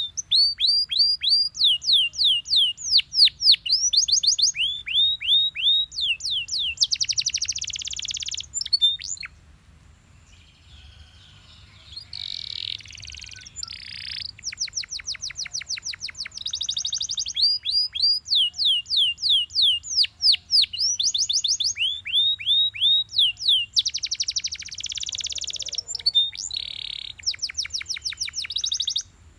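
Belgian canary singing a long song of rapid trills, each a run of repeated down-slurred whistled notes, shifting from tour to tour with denser buzzy rolls in between. The song drops away briefly about ten seconds in, then resumes.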